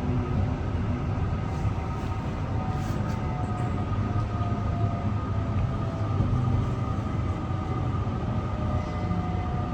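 Mariyung D-set electric train running between stations, heard from inside a carriage: a steady low rumble of wheels on track, with faint steady electric tones from the drive.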